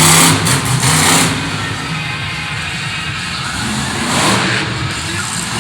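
Monster truck engine revving loudly, easing off about a second in to a lower, steady roar, with a brief swell near the end.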